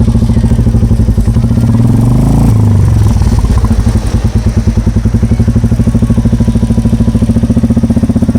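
Royal Enfield Meteor 350's single-cylinder engine idling with an even, loud thump through a freshly fitted KP stainless steel aftermarket exhaust. About two seconds in it is briefly revved, then settles back to idle.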